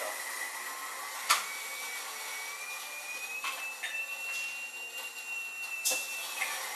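Small electric coffee grinder running with a steady high whine that slides up in pitch about two seconds in as the load lightens, then drops and stops near the end. A sharp click sounds about a second in.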